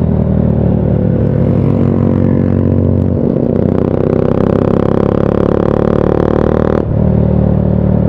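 Motorcycle engine running through a very noisy, fully custom-made exhaust while being ridden. The revs build from about three seconds in, with a brief break near the end before the engine pulls again.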